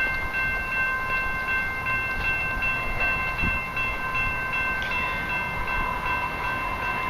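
Approaching commuter train, a low rumble with several steady high tones held over it throughout.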